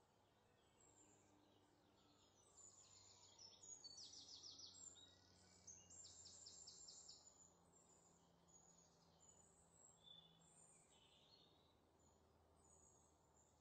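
Near silence with faint birdsong: high chirps and quick rapid trills, busiest a few seconds in, over a faint low hum.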